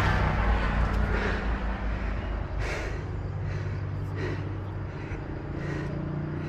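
A motor vehicle's engine hum fades away over the first couple of seconds, as a vehicle passes and recedes. It is followed by short breathy puffs about once a second, like heavy breathing.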